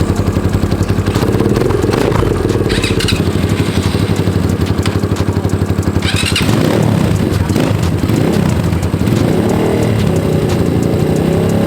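Dirt bike engine running, idling steadily at first; its revs shift about six seconds in and climb gradually near the end.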